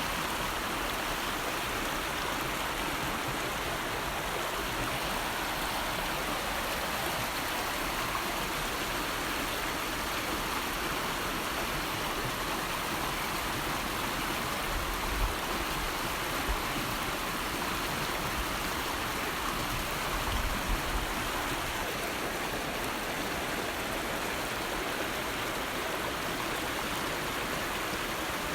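River water flowing in a steady, even rush, with a few brief low thumps about halfway through.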